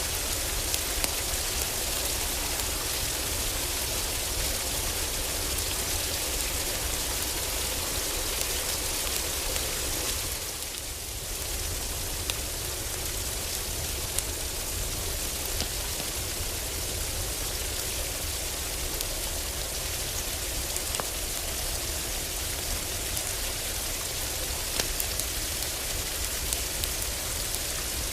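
Heavy rain pouring steadily on a roof, a dense even hiss with scattered sharp clicks. It turns briefly softer about ten seconds in, then carries on as before.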